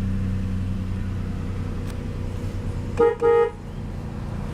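1998 Lexus ES300's 3.0-litre V6 idling steadily just after start-up. About three seconds in, a car horn gives two short toots.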